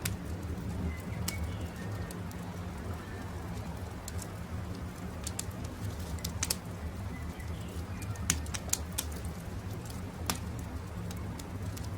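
Wood campfire crackling, with irregular sharp pops and snaps over a steady low rumble, the loudest pops a little past the middle. Faint bird calls sound now and then in the background.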